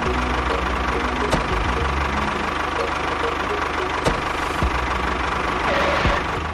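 A small engine idling steadily with a rapid knocking beat, cutting off at the end.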